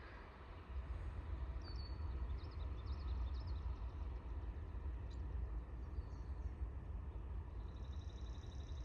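Birds chirping in short high calls, with a quick buzzy trill near the end, over a steady low rumble.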